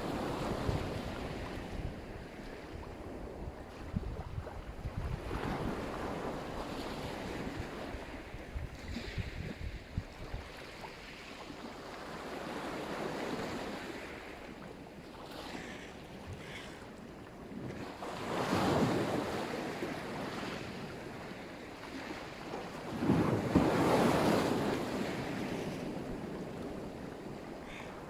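Sea surf: waves breaking and washing up the shore in slow swells, the two loudest breaking at about 18 and 23 seconds in. Wind buffets the microphone, mostly in the first few seconds.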